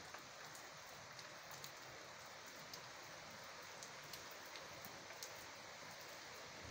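Steady rain falling: a faint, even hiss with scattered sharp ticks of single drops striking nearby.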